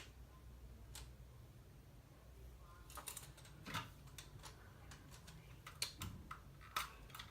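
Plastic LEGO bricks clicking and tapping as they are handled. The clicks are faint and irregular: a single one, then small clusters later on.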